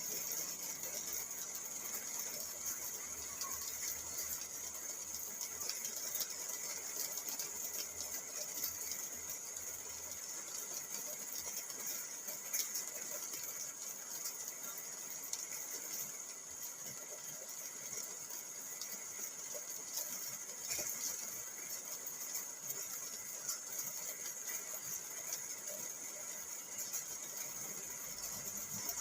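Steady rain drumming on a car's roof and windows, heard from inside the cabin as a continuous hiss full of fine rapid ticks from the drops.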